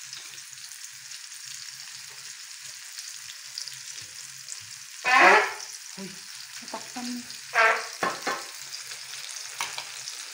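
Sliced mushrooms and garlic sizzling in butter in a frying pan, a steady high hiss, as oyster sauce is poured over them and stirred in with a wooden spoon. A few short, louder pitched sounds come about five seconds in and again around eight seconds in.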